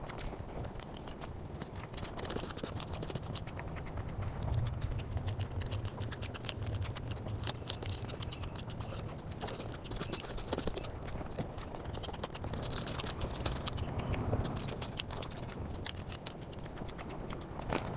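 Close-miked eating and chewing sounds played back sped up, a rapid, dense stream of smacking and crunching clicks.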